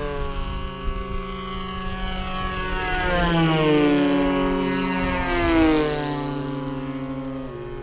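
Two large gasoline-powered RC model airplanes flying at full throttle, their propeller engines buzzing with pitch sliding up and down as they pass, loudest about four and six seconds in.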